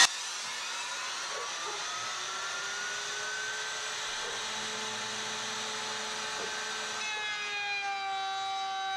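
Wood router's motor running with a steady whine after a loud cut stops abruptly at the start, its pitch rising slightly as it spins up free of the wood and dipping a little near the end.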